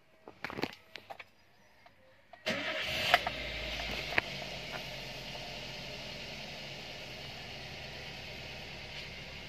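Toyota Avanza engine being started with its new ignition coil fitted: a few clicks, then about two and a half seconds in it cranks and catches, and it settles into a steady idle.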